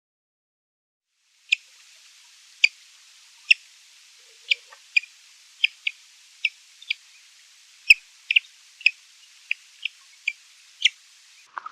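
A bird giving short, sharp chip notes, one every half second to second, over a faint hiss, starting about a second and a half in.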